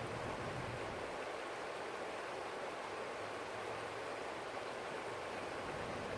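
Forest stream flowing, a steady rushing of water.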